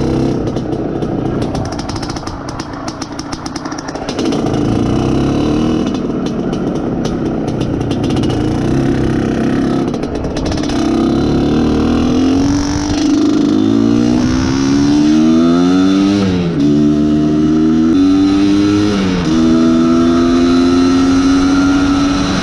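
IZh Planeta Sport's single-cylinder two-stroke engine, being run in, ridden at low, uneven revs for about the first half. It then pulls away, its note climbing through the gears with two drops at gear changes in the second half.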